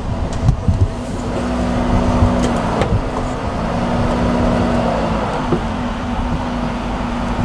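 A vehicle engine running with a steady hum, which drops out briefly about three seconds in and again about five and a half seconds in.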